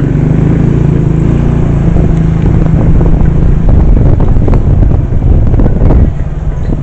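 A small engine running close by while riding, steady for about the first three seconds and then rougher, with rattles and knocks.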